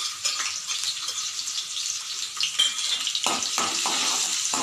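Chopped ginger and garlic sizzling in hot oil in a metal kadai. From about three seconds in, a metal spatula scrapes and stirs the pan several times.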